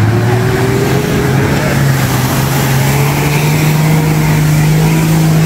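Off-road 4x4's engine revving, its pitch rising in the first second and then held steady at high revs, as the vehicle pulls through deep mud and water.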